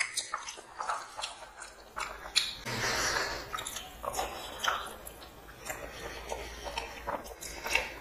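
People chewing mouthfuls of mutton biryani, with wet, irregular mouth clicks and smacks.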